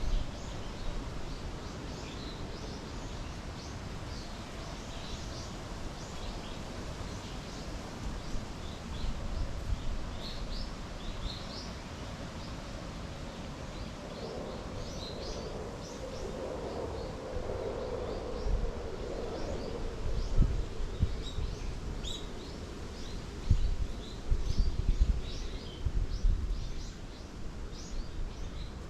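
Small birds chirping and twittering, with many short high calls scattered through the whole stretch. Midway a low hum swells and fades over several seconds, and near the end gusts of wind rumble on the microphone.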